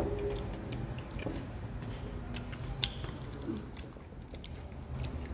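People chewing McDonald's french fries close to the microphone: scattered soft mouth clicks and smacks.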